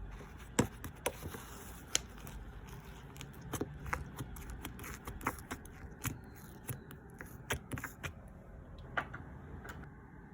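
Yellow clay slime being squished and pressed by hand, giving irregular sharp clicks and pops, about one or two a second, over a soft low handling noise.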